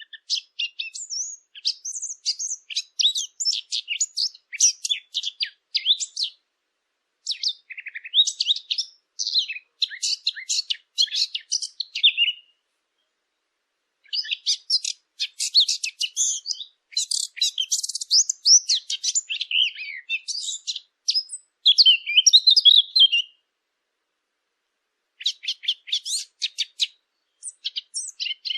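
Small birds chirping and twittering in rapid runs of high notes, in phrases a few seconds long broken by short silent pauses.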